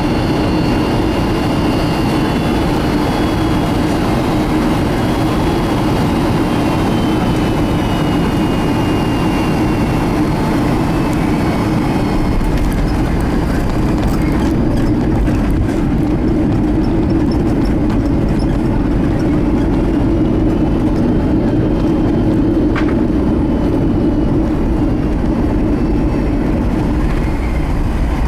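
Steady cabin rumble of a Boeing 757-200 rolling on the ground after landing. A faint high whine slowly falls in pitch over roughly the first ten seconds, and the deepest rumble grows stronger about halfway through.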